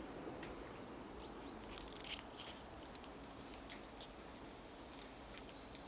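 A squirrel gnawing a nut: faint, scattered small clicks and crunches, a short cluster of them about two seconds in, over a steady low hiss.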